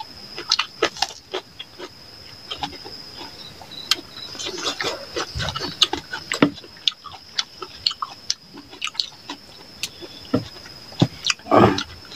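Close-up eating sounds of two people eating chicken curry and rice with their hands: irregular wet chewing, lip smacks and clicks, with a louder, fuller mouth sound near the end.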